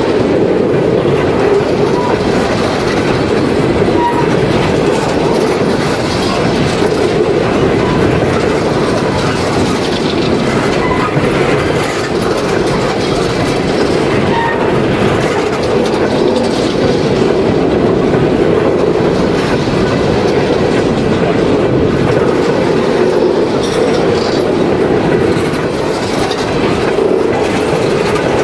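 Empty Norfolk Southern open-top coal hopper cars rolling past close by: a steady rumble of steel wheels on the rails with clickety-clack over the rail joints.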